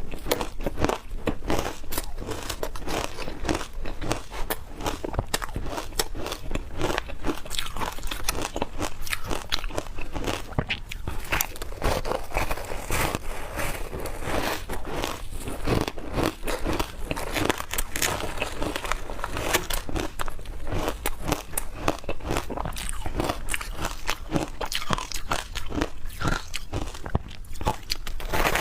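A person biting and chewing matcha ice, a dense, unbroken run of crunches and cracks.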